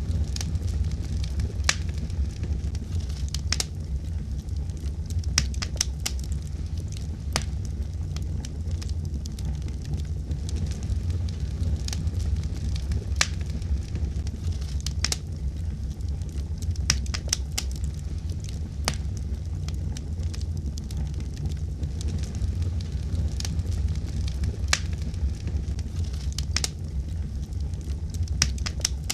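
Wood fire burning in a fireplace: a steady low rumble of flame with irregular sharp crackles and pops, several every few seconds.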